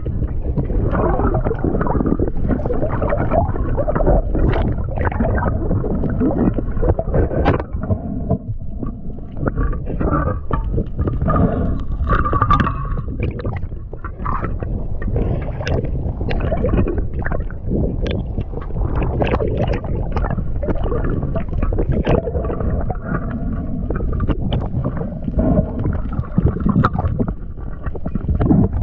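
Water sloshing and gurgling, muffled and low, with many scattered small clicks and knocks.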